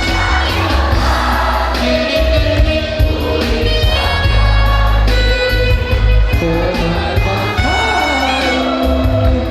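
A high school choir singing a song together, with a strong, steady low bass accompaniment underneath.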